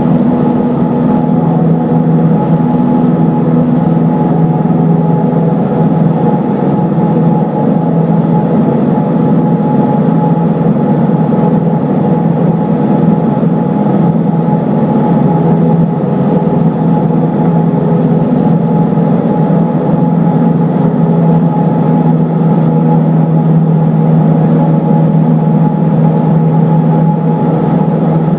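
A Cessna 152's four-cylinder Lycoming O-235 engine and propeller droning steadily at an even pitch.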